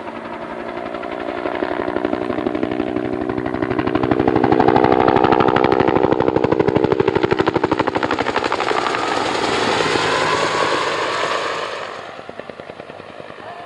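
Helicopter flying past with a fast, rapid rotor blade chop. It grows louder to a peak about five seconds in, its tone drops in pitch as it passes, and it fades away near the end.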